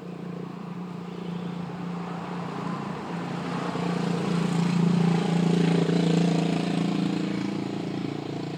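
A motor vehicle's engine running steadily, growing louder toward the middle and then easing off a little.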